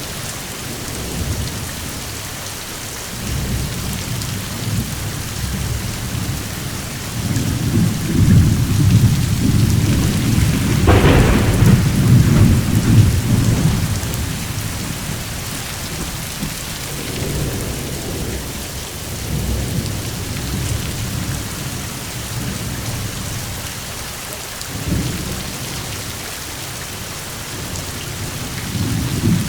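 Steady heavy rain with rolling thunder. A long low rumble builds about a quarter of the way in and peaks near the middle with a sharper crack. Weaker rumbles follow later.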